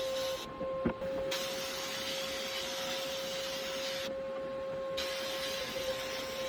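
A steady machine hum holds one pitch throughout, under a loud hissing noise. The hiss cuts out twice for about a second each time, with a click about a second in.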